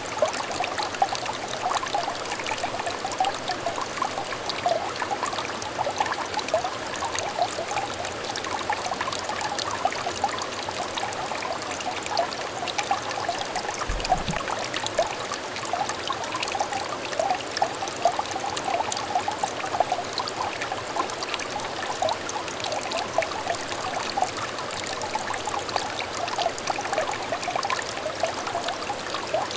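Small stream of water trickling and burbling over stones, a steady babble of small bubbly splashes.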